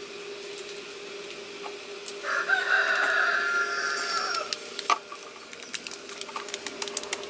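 A rooster crows once, about two seconds in, for a little over two seconds. Under it runs the steady hum of the BioLite camp stove's fan, with scattered light clicks of gear being handled.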